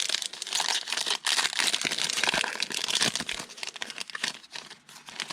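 Foil trading card pack wrapper being torn open and crinkled by hand, a dense run of crackling that thins out toward the end.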